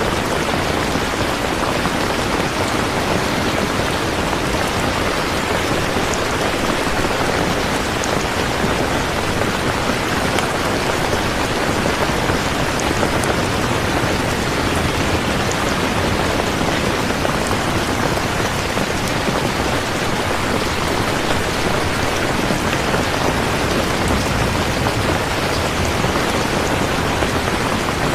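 Steady heavy rain, a dense even hiss of falling water with scattered droplet ticks.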